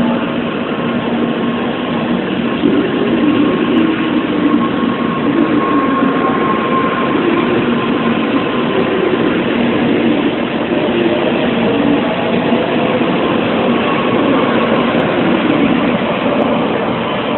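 A train running at a railway station, a loud steady rumble and hiss with faint wavering tones through it.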